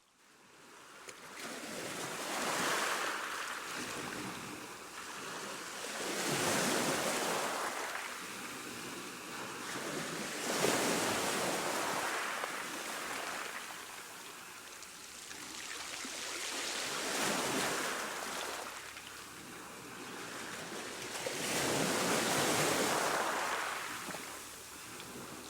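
Ocean waves breaking and washing in, swelling and ebbing about five times at intervals of four to five seconds. The sound fades in from a near-silent dip at the very start.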